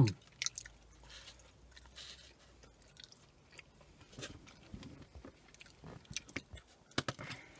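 Close-up mouth sounds of chewing and biting deep-fried battered squid rings: quiet, irregular crunches and wet mouth clicks, with one sharper click near the end.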